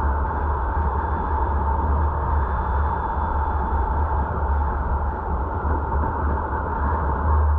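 Steady road and wind noise of a car driving, picked up by a dashcam inside the cabin: a constant low rumble with a steady mid-pitched hum over it.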